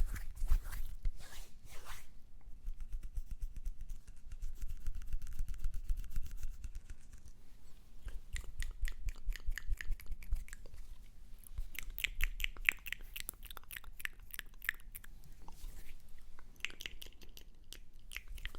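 Close-miked ASMR mouth and hand sounds: runs of quick, crisp clicks, thickest midway through.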